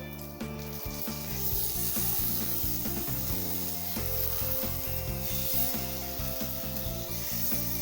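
Boiled sweetcorn pieces sizzling in hot oil and fried spices in a kadai, with scattered knocks as the pieces go in and are moved around.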